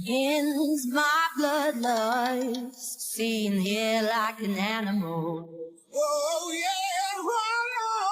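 Background music with a woman singing long, wavering held notes, breaking off briefly about six seconds in.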